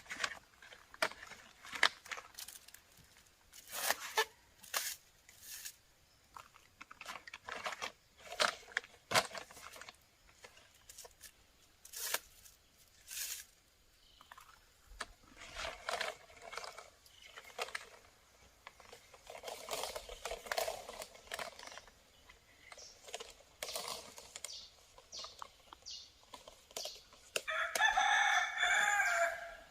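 A rooster crows once near the end, a single call of about two seconds, over a scatter of short clicks and knocks.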